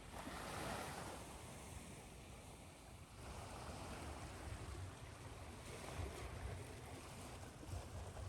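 Ocean waves washing on a shore: a continuous surf hiss that swells about a second in and again in the second half, with a low rumble underneath.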